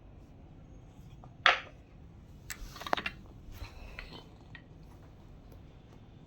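Small clicks and clinks of a hard toy being pecked and handled by a baby parrot, with one louder, sharp sound about one and a half seconds in.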